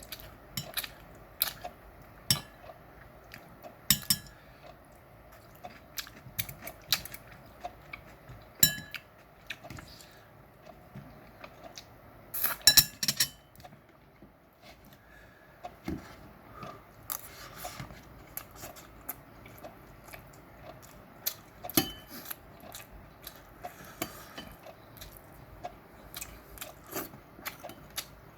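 Eating utensils clicking and clinking against dishes during a meat meal, in scattered sharp taps with a louder cluster of clatter about halfway through, with some chewing.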